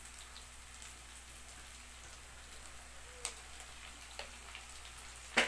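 Onions frying in hot oil in a kadai: a steady sizzle, with a couple of light clicks and a sharper one near the end.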